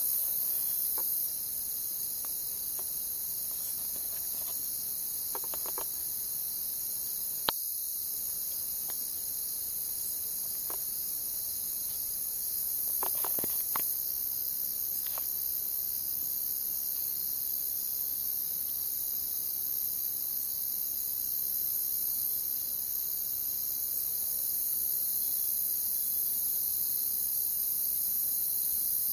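Crickets chirping in a steady high-pitched chorus, with a few soft crackles from a campfire and one sharp pop about seven and a half seconds in.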